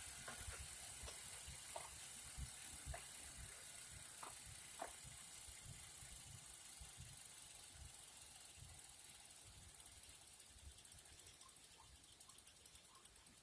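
Bike on a Wahoo Kicker Snap wheel-on trainer coasting down: a faint rumble fading away, the fault noise the trainer makes. Near the end the rear hub's freewheel pawls tick slowly as the wheel slows.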